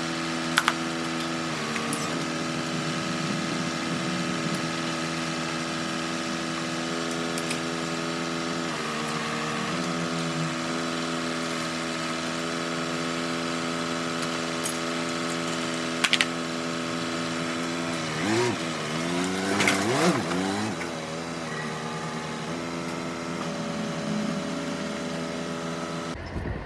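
An engine running steadily. Its pitch shifts a few times, and it revs up and down with swooping pitch a little past the middle. A few sharp metallic knocks sound over it.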